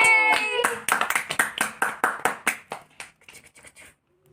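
Hands clapping in a steady rhythm, about five claps a second, fading out after about three seconds, with a voice singing or calling briefly at the start.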